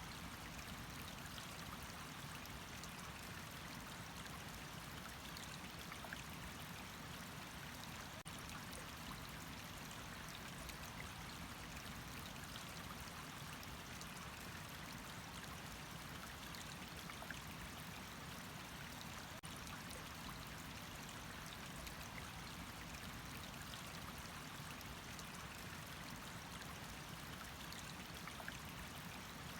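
Running water: a steady, even flow with no change in level.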